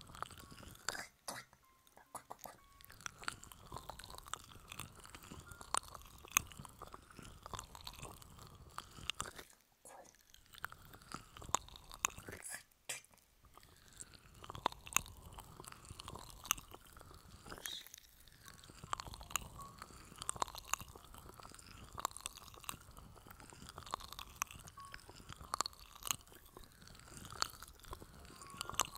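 Close-miked ASMR scratching and tapping on the microphone: a dense, crackly stream of small clicks and scratches with sharper taps scattered throughout.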